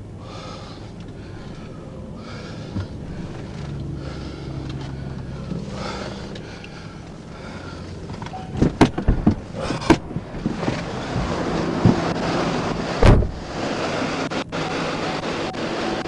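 Highway traffic and vehicle engines running, with wind buffeting the microphone; the noise grows louder about halfway through, with a few sharp thumps of wind on the microphone.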